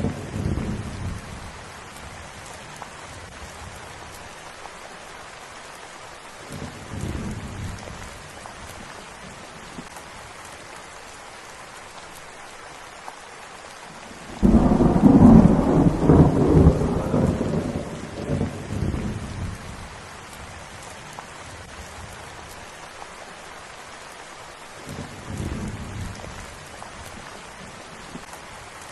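Steady rain falling, with rolls of thunder. A faint rumble fades in the first second, others come around a quarter and near the end, and a loud clap breaks suddenly about halfway and rumbles away over several seconds.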